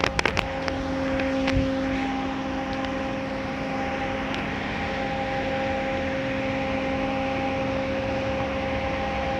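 Automatic car wash equipment running: a steady hiss of spraying water under a constant motor hum, with a few clicks at the start.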